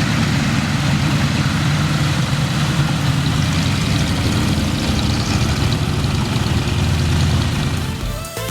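Piston aero engine of a vintage propeller aircraft running steadily with a deep, even drone. Music cuts in near the end.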